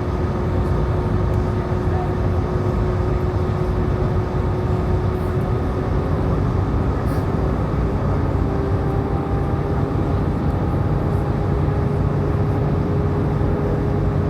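Passenger aircraft cabin noise on descent: the steady drone of the engines and airflow, with a steady whine that steps up slightly in pitch about halfway through.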